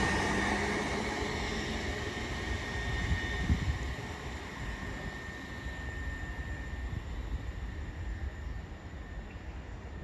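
A departing TransPennine Express Class 802 train dying away: its rumble and a steady high whine fade over the first couple of seconds, leaving a low, rough background noise. There is a short low thump about three and a half seconds in.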